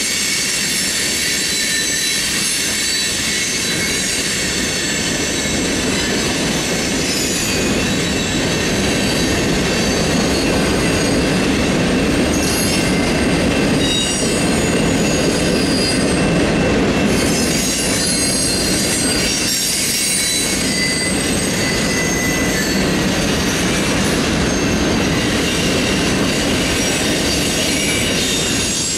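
Freight cars of a Union Pacific manifest freight train rolling steadily past, a continuous rumble of steel wheels on rail with high-pitched wheel squeal that rises and fades in waves.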